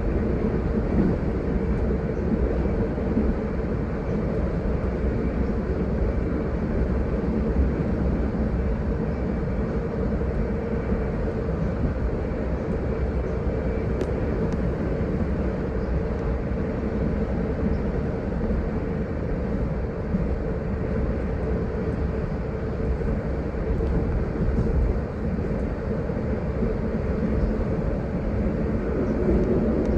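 Steady rumble of a moving GO Transit commuter train heard from inside a passenger coach: wheels running over the rails, with a steady hum underneath.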